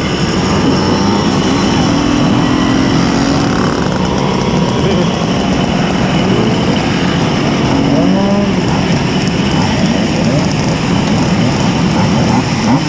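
Tuned Simson S51 mopeds with 90 cc reed-valve two-stroke engines riding, the engines revving up and down, with pitch rising sharply at times as they accelerate.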